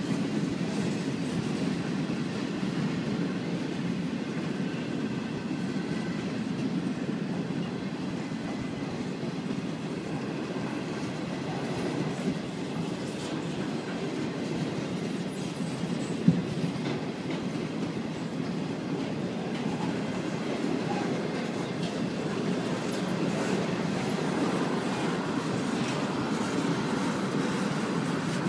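A train rolling past steadily, with a sharp knock a little past the middle.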